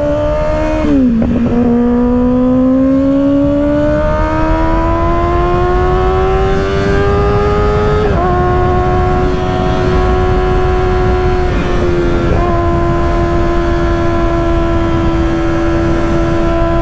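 Kawasaki ZX-6R 636 inline-four with an M4 aftermarket exhaust pulling under load. Its pitch climbs steadily, then dips with an upshift about a second in, another about eight seconds in, and a third a few seconds later, before holding steady. A rush of wind noise runs underneath.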